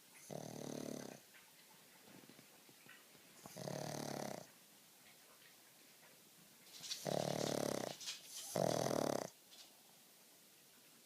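Black pug snoring in its sleep: four snores, each about a second long, the last two close together. It is the noisy sleep breathing typical of a pug's short-muzzled airway.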